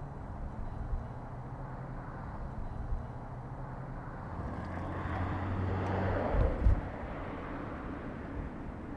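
A car passing close by: its tyre and engine noise swells over about two seconds midway, peaks, then fades, over a steady low street hum.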